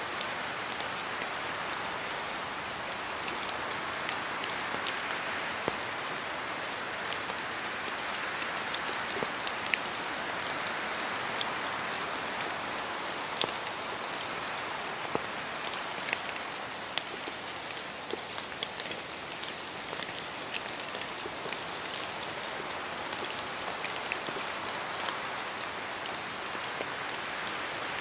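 Steady rain falling, with many sharp drops ticking close by throughout.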